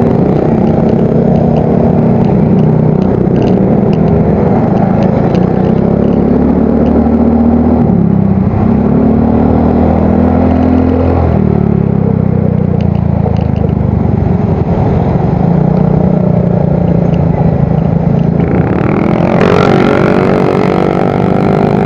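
Yamaha Mio Soul GT scooter engine running through an aftermarket exhaust while riding, its pitch shifting up and down with the throttle every few seconds. Near the end a second, higher engine note rises.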